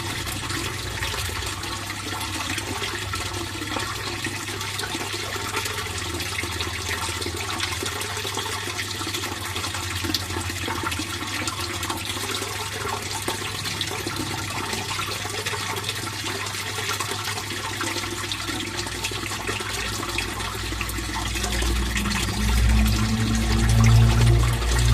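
Fish pond water flowing and trickling steadily, with a low steady hum beneath it. A deeper rumble swells up in the last few seconds.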